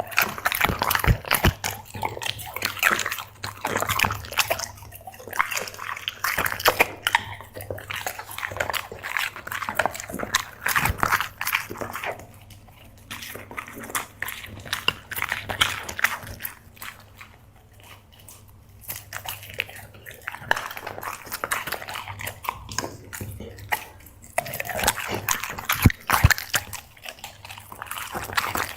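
Black Labrador chewing and smacking its food in wet bursts of clicks and smacks. It eases off for several seconds about halfway through, then starts again.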